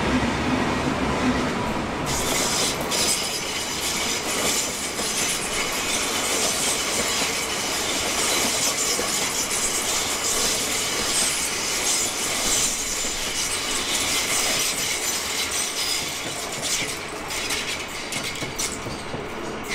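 Trains rolling past on the tracks. A low diesel rumble from a V/Line VLocity railcar set fades in the first two seconds. Then the wheels of a High Capacity Metro Train, an electric multiple unit, clack over rail joints with a steady high-pitched squeal and hiss.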